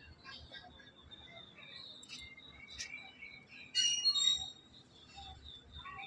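Birds chirping, with one louder call about four seconds in, over faint short scrapes of a straight face razor drawn across the cheek.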